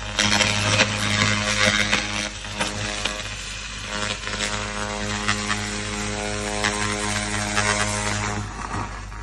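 Handheld pulsed fiber laser cleaner running as it strips oil off metal: a steady buzzing hum with a crackling hiss of the laser pulses hitting the surface, strongest in the first couple of seconds. The hum stops near the end.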